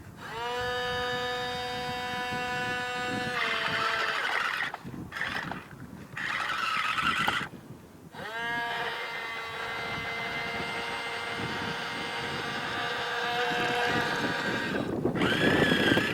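Electric motor of a toy RC wheel loader whining at a steady high pitch, in two long runs: it spins up quickly and holds, with a rougher, noisier stretch between the runs.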